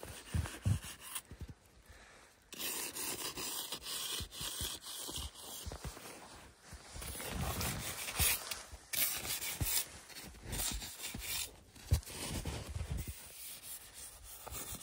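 Snow being shovelled and scraped: irregular scraping and crunching strokes with a few dull thuds as snow is packed.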